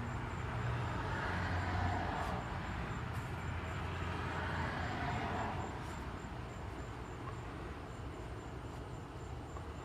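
Background traffic noise from a passing vehicle, swelling over the first couple of seconds and fading away after about five seconds.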